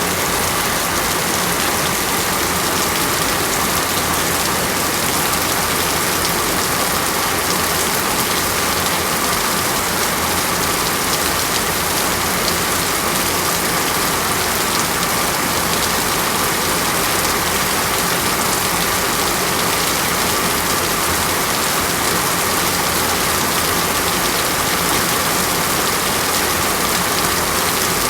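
Steady, even rain falling on a surface, a dense constant hiss of drops with no thunder or breaks.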